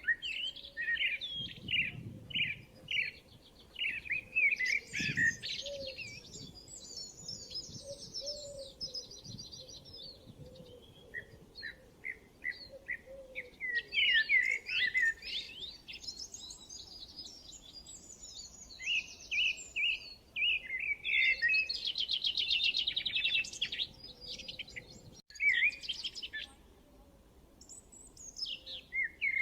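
Songbirds singing: a run of varied high chirps and whistled notes with fast buzzy trills, briefly dropping out about 25 seconds in.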